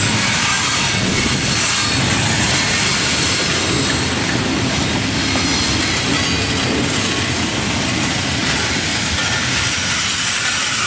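Double-stack intermodal container train's well cars rolling past close by: a steady, loud rumble of steel wheels on rail, with a faint high wheel squeal running through it.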